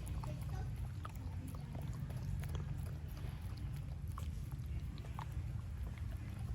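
A dog eating, with small irregular chewing clicks over a steady low hum.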